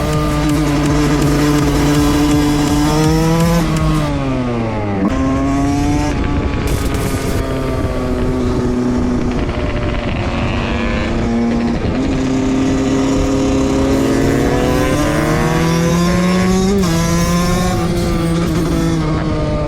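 Two-stroke motorcycle engine running hard under load. The revs hold, fall sharply about four to five seconds in, then climb again and drop suddenly near the end.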